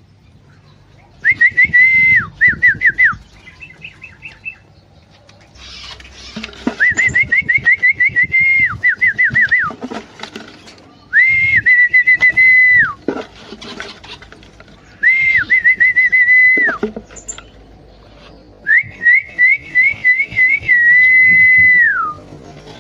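A person whistling five repeated phrases, each a rising note held at a steady pitch with a warbling trill and ending in a falling glide, with short pauses between them.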